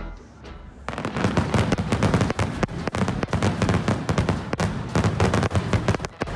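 Fireworks going off in rapid succession: a dense run of bangs and crackles that starts about a second in, with a brief lull near the end.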